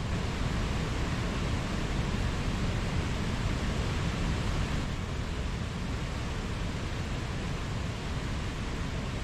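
Mountain stream rushing steadily over rocks, an even wash of water noise with no breaks.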